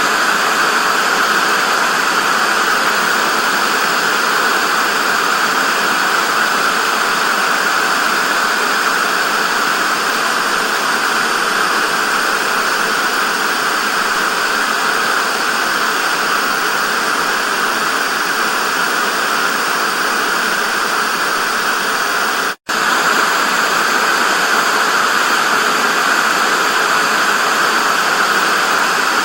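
Steady loud hiss of analogue TV static (white noise), strongest in the upper middle range, with one split-second dropout near the end.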